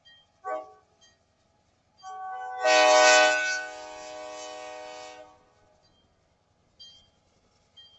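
Diesel locomotive horn sounding one long blast of about three seconds, a chord of several notes that swells and then fades.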